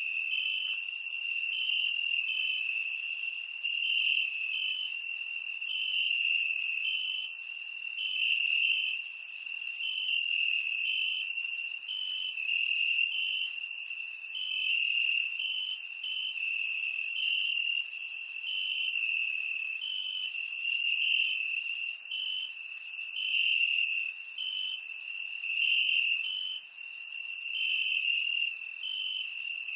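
Crickets chirping: a continuous high trill, with short repeated chirps pulsing just above it.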